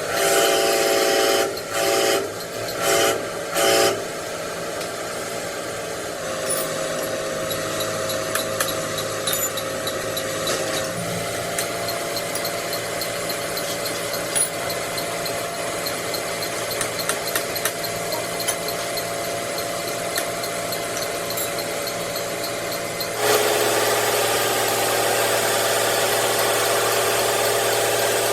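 Electric workshop power tool switched on in several short bursts, then a long stretch of steady hissing with faint ticks, then running steadily again from about two-thirds of the way in.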